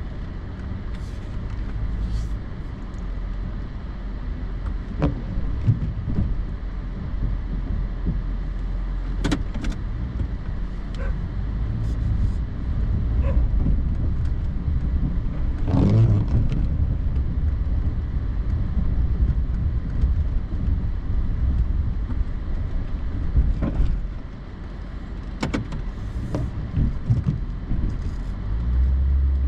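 Pickup truck's engine running at low speed while plowing snow, with scattered knocks and rattles over the steady low rumble.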